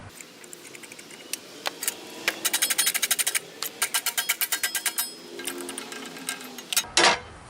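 Ball bearing from a Sears Craftsman bench grinder spun by hand, rattling in several runs of rapid clicks, about ten a second. The bearing is worn out and rough.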